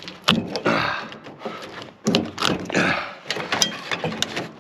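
A series of sharp knocks and clanks from a microwave oven's sheet-metal chassis as the transformer inside is worked loose.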